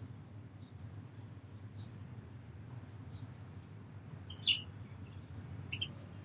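Small birds chirping: many faint, short, high chirps throughout, with two louder, sharp calls, one about four and a half seconds in and one near six seconds, over a steady low background rumble.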